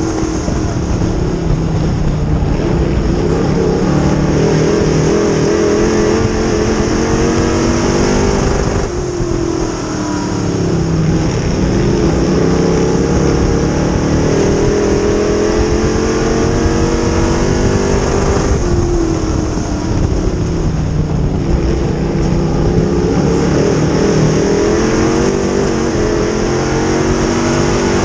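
Dirt-track modified race car engines at full throttle on the track, the pitch climbing and falling as the cars go around, with a brief drop roughly every nine seconds.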